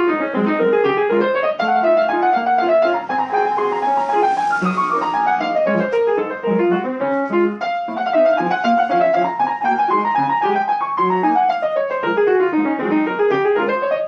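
Piano playing quick flowing runs that sweep down and back up the keyboard, over repeated lower notes.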